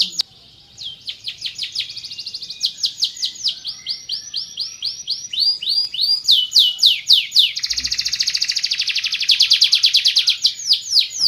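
Domestic canary singing: a song built of runs of repeated, quickly falling whistled notes, changing pace from run to run. After a short pause near the start, it turns into a very fast trill in the second half.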